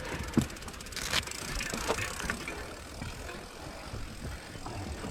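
Mountain bike being handled and moved, with a few scattered clicks and knocks, one of them sharp about a second in.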